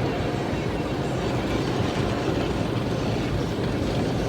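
Automatic car wash machinery running, heard from inside the car's cabin: a steady, unbroken rush of noise over a low hum.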